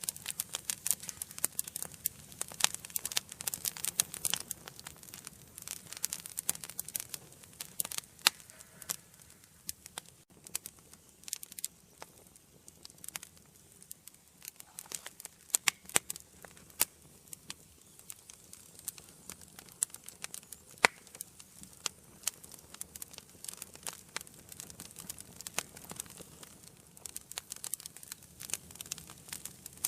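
Wood fire burning in a fireplace, crackling with many irregular pops and snaps over a faint steady hiss, a few sharper pops standing out.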